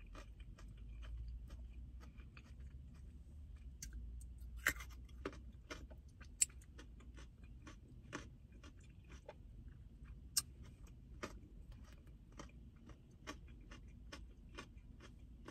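A person chewing raw carrot close to the microphone: irregular crunches and wet mouth clicks, a few sharper ones standing out, over a low steady rumble.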